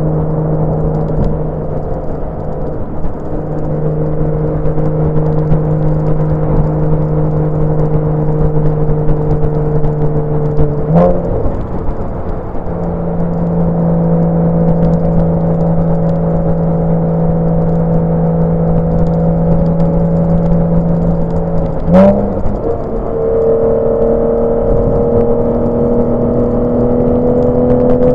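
Porsche 987 Boxster's flat-six engine pulling at steady revs while driving. The pitch changes briefly twice, and the revs climb near the end.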